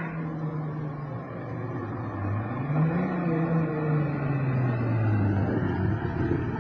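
VW Golf Mk4's VR6 engine: its revs fall away, then rise in a slow swell that peaks about three seconds in and sink back to a low, steady note.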